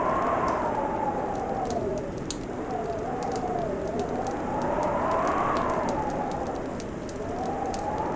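Fireplace crackling with scattered sharp pops, over a steady rushing background with a whistling tone that slowly rises and falls.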